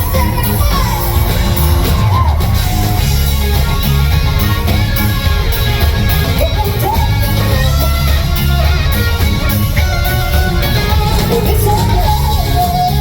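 Live country band playing loudly in a concert hall, with guitars, a heavy bass and sung vocals that sound like a singer and crowd singing a chorus together.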